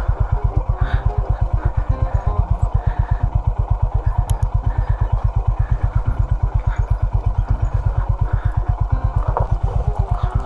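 Honda CB350 H'ness single-cylinder engine running steadily at low revs, with even pulses about seven a second and some light mechanical clatter.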